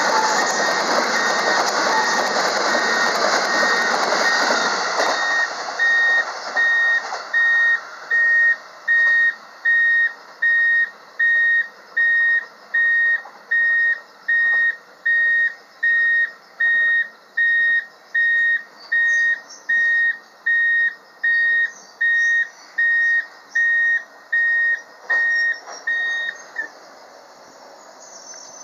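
A 285 series electric sleeper train (Sunrise Seto / Sunrise Izumo) running through the station, its wheels rolling loudly until the last cars clear about five seconds in. Then an electronic warning beep sounds about once a second for some twenty seconds while the next train approaches. It stops as that train pulls in, with faint high squeals near the end.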